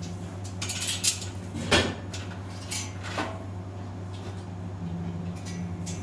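Several metal clanks and knocks, the loudest a little under two seconds in, over a steady low hum.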